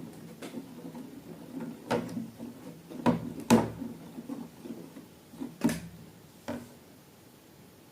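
A handful of short knocks and clicks at irregular intervals, the loudest about three and a half seconds in, fading to quiet near the end.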